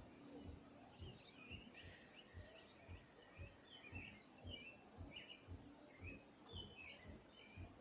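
Faint small birds chirping, many quick short chirps overlapping, over soft low thuds repeating a few times a second.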